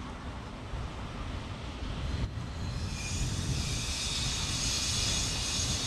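Railway noise at a station: a steady low rumble, joined about halfway through by a loud high-pitched hissing whine made of several steady tones.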